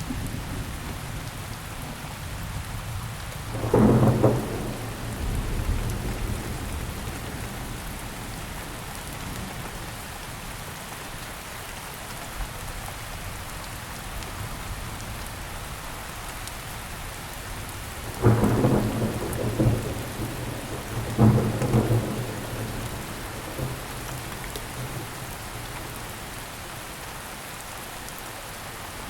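Steady rainfall with three loud claps of thunder, one about four seconds in and two close together past the middle, each dying away as a low rumble over a second or two.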